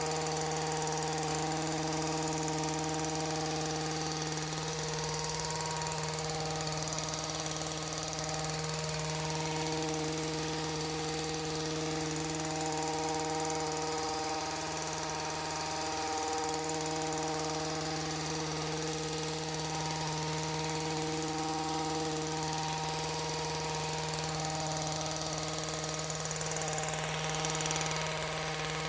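Small gasoline engine of a handheld power tool running steadily at high speed, with a brief dip in speed about halfway through.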